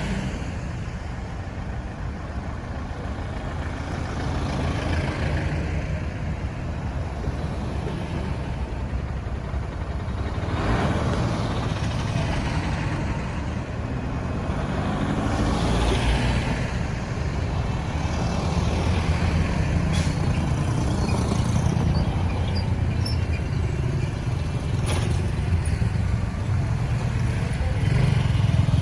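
Road traffic noise: a steady low engine rumble with several vehicles passing, each rising and fading. Two sharp clicks come in the latter half.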